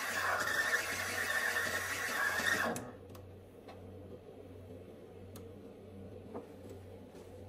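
Water running from a tap, shut off abruptly about three seconds in, followed by a few light clicks and knocks.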